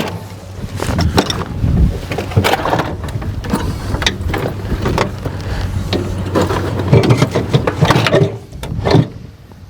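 Repeated clanks and knocks of metal tools and parts being handled, over a steady low hum.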